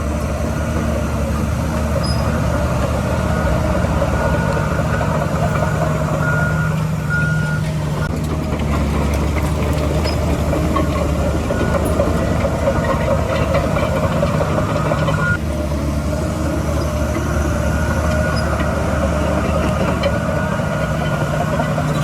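Heavy diesel earthmoving machinery running steadily, with a few short high back-up alarm beeps at irregular intervals.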